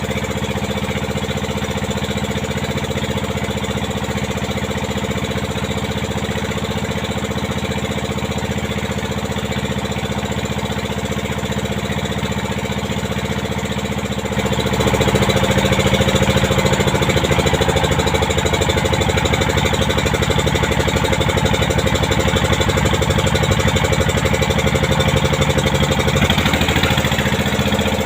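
Pompong motorboat's inboard engine running steadily. About halfway through it is throttled up and runs louder, given more throttle to push against a strong current.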